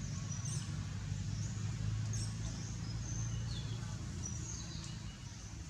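Birds chirping now and then, short high calls, some falling quickly in pitch, over a steady low hum.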